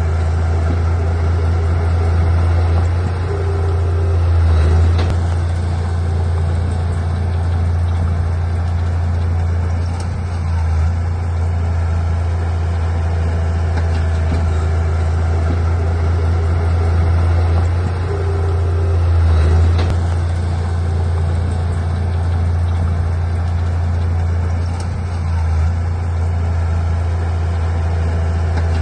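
Heavy diesel engine of earthmoving equipment running steadily with a deep drone. It swells under load a few seconds in and again about two-thirds of the way through, easing off briefly in between.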